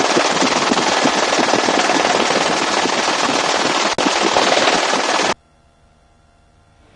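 A long, continuous burst of belt-fed machine-gun fire from a helicopter, about five and a half seconds long, that stops suddenly.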